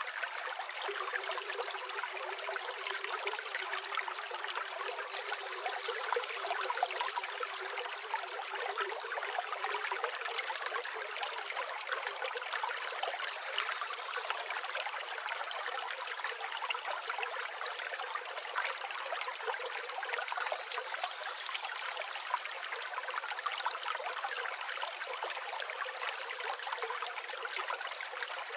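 A river or stream flowing and babbling steadily, with no low rumble. A few faint, high bird calls come through the water now and then.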